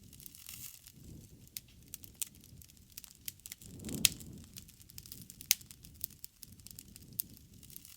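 Wood bonfire crackling, with irregular sharp pops over a soft low rush of flame; the loudest pop comes about four seconds in.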